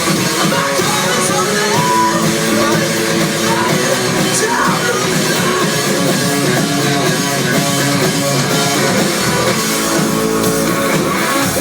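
Rock band playing live, loud and steady, with guitars and drums.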